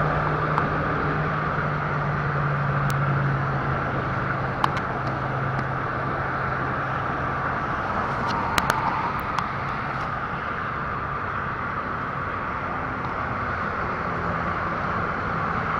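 Apollo RFZ dirt bike engine running steadily under a haze of wind and road noise, its tone easing off somewhat about halfway through, with a few light clicks.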